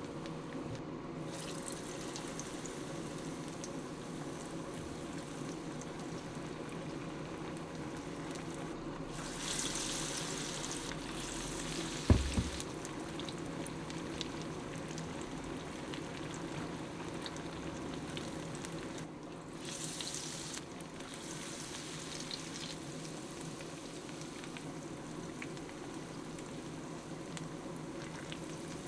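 Food sizzling and bubbling in a pan, a steady hiss that swells twice, with one sharp knock about twelve seconds in.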